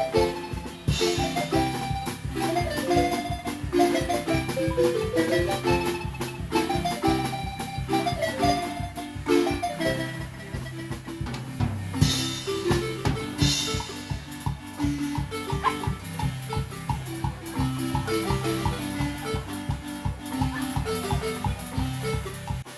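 Marimba ensemble playing an upbeat dance tune live: fast mallet runs over a steady bass line, with percussion keeping a regular beat.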